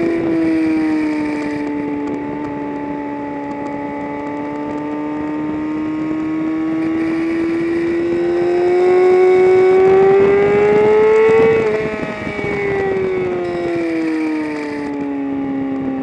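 A vehicle's engine on a race track, heard from onboard with wind noise. It holds steady, then climbs in pitch for about ten seconds under acceleration. A little before the end of that climb it drops abruptly and keeps falling as the vehicle slows.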